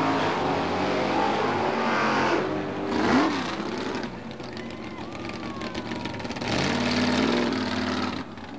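Drag-racing car's engine running hard at full throttle. Its pitch swoops down and back up about three seconds in, the sound drops away for a few seconds, then rises loud again with climbing revs before cutting down near the end.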